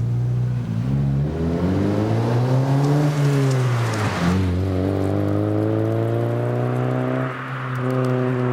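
Exhaust of a Honda Civic's 1.4-litre four-cylinder D14Z1 engine, running through a Burstflow muffler with its silencer removed. The revs rise and fall once, then climb steadily for about three seconds, dip briefly about seven seconds in, and settle.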